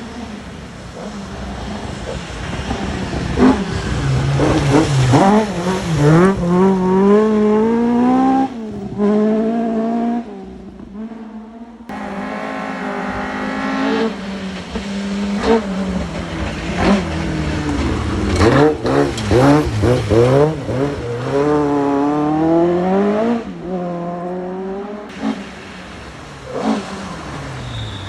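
Rally cars passing one after another at full speed, engines revving hard and climbing in pitch through the gears with a sudden drop at each upshift. The sound changes abruptly about twelve seconds in and again near the end as the next car comes through.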